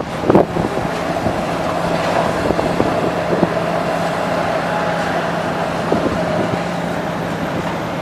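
An engine running steadily at a constant pitch, with scattered faint knocks and clicks.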